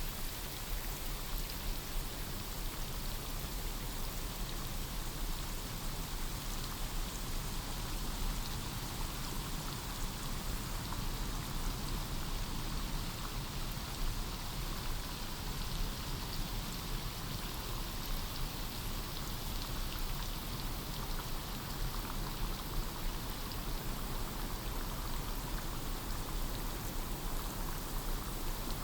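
Steady rain falling on forest foliage, a dense even patter of drops with scattered nearer drips.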